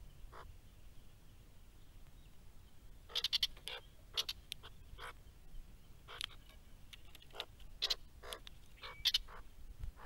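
A run of short, sharp bird calls in irregular bursts, roughly two a second, starting about three seconds in and stopping shortly before the end.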